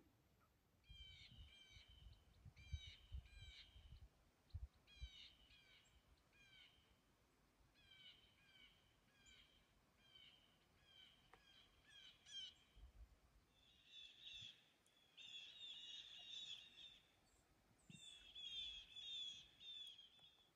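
Faint bird calls: short, harsh, down-slurred notes repeated in pairs and small groups, turning into denser chattering runs in the last third.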